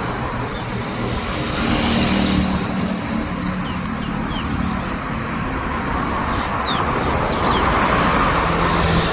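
Steady road traffic noise with engine hum from passing vehicles, and a few short high chirps about halfway through.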